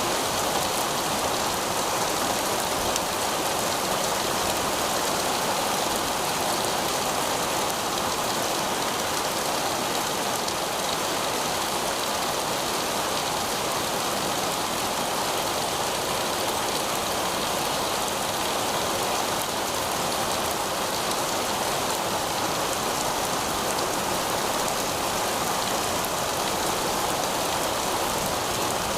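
Heavy rain falling steadily on pavement, a dense, even hiss of drops.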